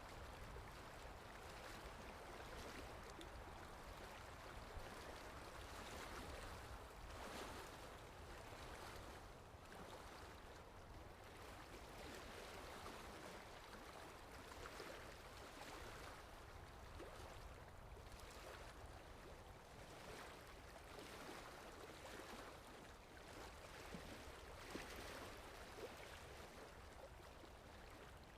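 Faint sea sound: a steady wash of gentle waves lapping, swelling softly every couple of seconds, with small splashes here and there.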